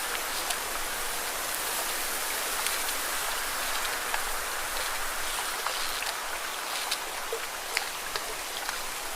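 Lake water washing and splashing against rocks: a steady hiss of moving water with many small, sharp splashes and drips scattered throughout.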